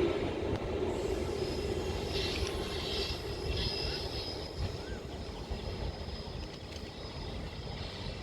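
A passing train's rumble and wheel noise on the rails, growing steadily fainter as it moves away.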